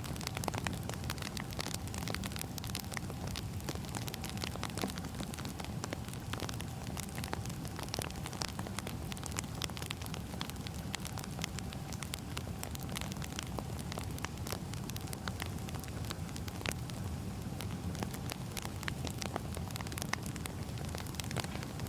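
Firewood burning: a steady low rumble with frequent sharp crackles and pops.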